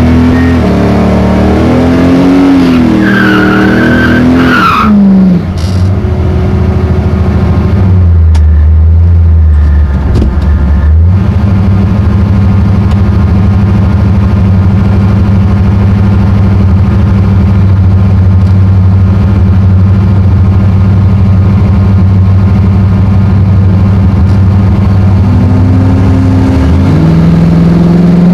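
Drag-racing 1957 Chevrolet's engine revving hard with a tyre squeal for the first few seconds. It then runs steadily at a held speed for most of the time, and revs up again near the end.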